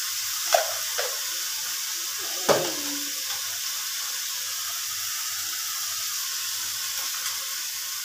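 Pui shak and vegetables sizzling steadily in a kadai, with a spatula knocking and scraping against the pan three times: about half a second, a second and two and a half seconds in.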